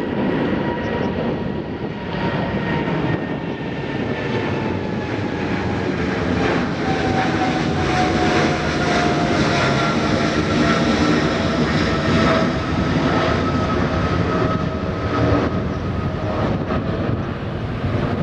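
Jet airliner's engines passing close, a loud rushing roar with a high whine that falls steadily in pitch as the aircraft goes by.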